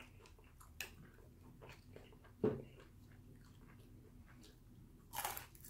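Faint chewing with small wet mouth clicks from a person eating. There is a single short knock about two and a half seconds in and a brief rustling burst near the end.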